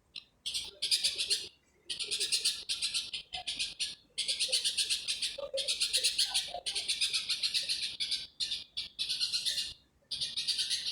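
A bird's rhythmic night call: rapid, high-pitched, hissy pulses, about ten a second, in bursts of roughly a second repeated with short gaps.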